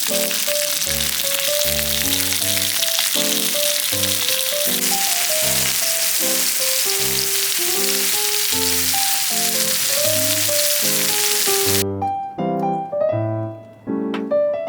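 Meat sizzling in a hot pan or on a grill, a dense steady hiss that cuts off abruptly near the end, under background piano music that carries on alone.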